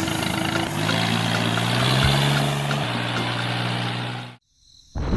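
Motor running with a steady low hum whose pitch steps up about a second in and drops back near three seconds, then cuts off abruptly near the end before a different noise starts.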